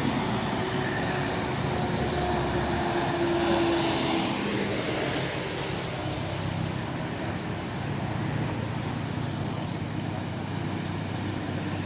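Heavy truck's diesel engine running steadily under load, a continuous low drone with a faint whine that fades about four seconds in.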